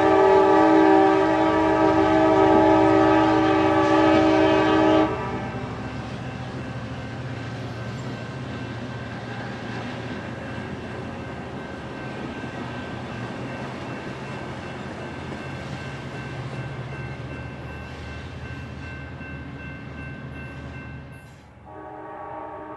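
A passenger train's multi-tone air horn sounds one long blast of about five seconds, then the train runs on steadily with a low hum. Near the end, after a brief dip, the horn sounds again.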